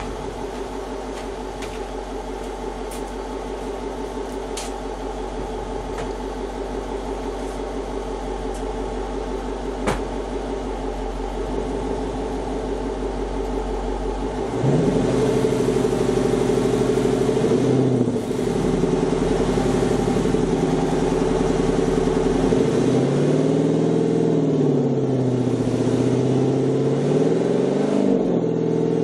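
2009 Dodge Challenger R/T 5.7L HEMI V8 running through a CORSA Xtreme cat-back exhaust with JBA shorty headers, at a steady low note at first. About halfway through it gets suddenly louder and the note rises, then it rises and falls several times toward the end as the engine is revved.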